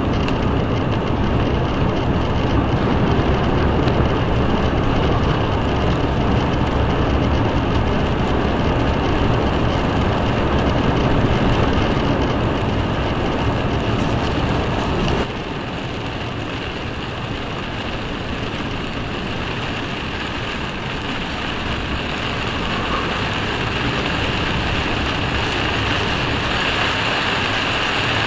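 Steady noise of a moving car heard from inside the cabin through a dash cam's microphone. It drops suddenly to a lower, even level about halfway through.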